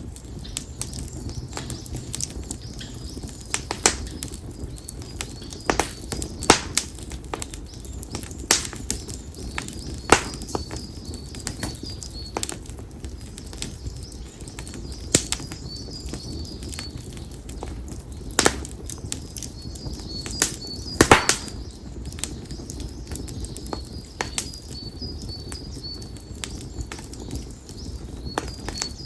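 Konara oak firewood burning in an open bonfire, crackling with sharp pops at irregular intervals over the low, steady rustle of the flames. A cluster of the loudest pops comes about two-thirds of the way through.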